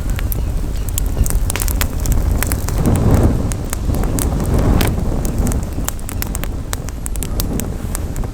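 Campfire crackling, with many sharp, irregular pops and snaps. Wind rumbles on the microphone, with gusts swelling about three and five seconds in.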